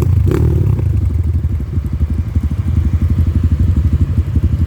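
Dirt bike engine running at idle with a fast, steady pulsing beat. The rider puts the bike's trouble down to spark plug misfires.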